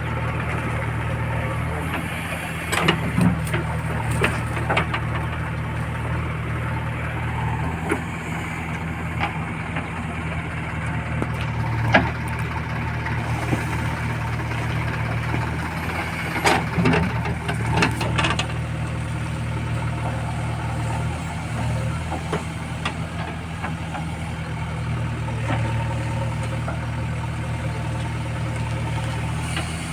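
Heavy diesel engine running steadily at low revs, with a few sharp metallic knocks and clanks now and then.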